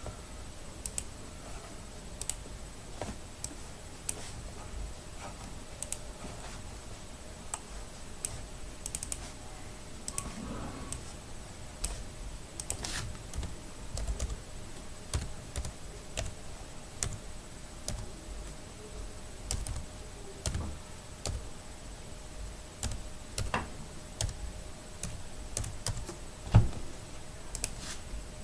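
Irregular clicks and taps of a computer keyboard and mouse, a few every couple of seconds, over a faint steady hum.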